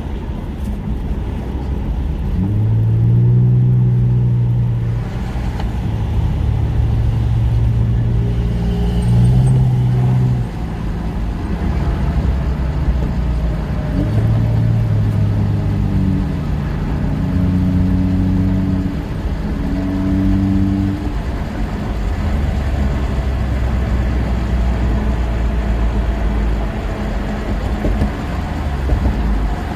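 Car driving on the road, heard from inside: a steady low rumble of engine and road noise, with a low hum that holds its pitch for a few seconds at a time and steps up or down as the engine speed changes.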